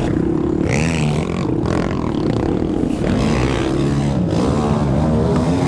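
Racing ATV engine revving up and down as the quad is ridden through mud, its pitch rising and falling repeatedly, with some scraping and clatter.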